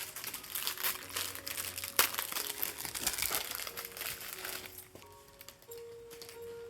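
Gift wrapping crinkling as a present is unwrapped by hand, with a sharp click about two seconds in. The crinkling dies down after about five seconds, leaving soft background music.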